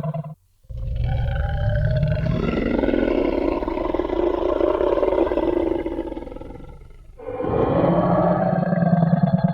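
Designed Tyrannosaurus rex roar sound effect: one long, deep growling roar of about six seconds that fades away, then a second roar begins about seven and a half seconds in.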